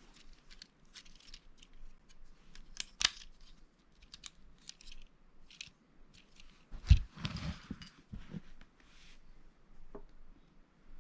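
Small plastic LEGO pieces being handled and fitted together: a run of light clicks and ticks, with a louder knock and some rustling about seven seconds in.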